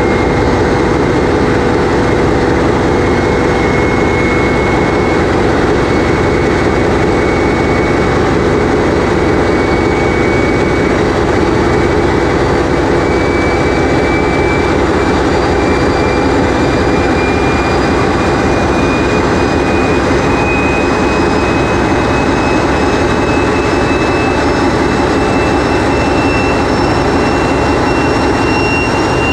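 TEP70 diesel locomotive's V16 diesel engine running under load, heard close up inside the engine room: a loud, dense, steady drone with a thin high whine that slowly rises in pitch.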